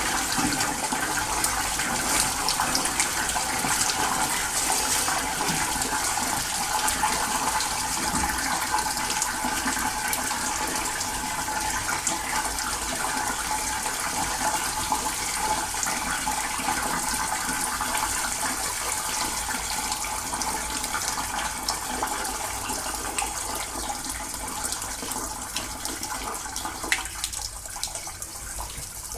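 Water jetting from a hose wand inside a cast-iron sectional steam boiler, rushing and splashing steadily as the wand is spun to wash oil and black sludge out of the sections; it gets quieter near the end.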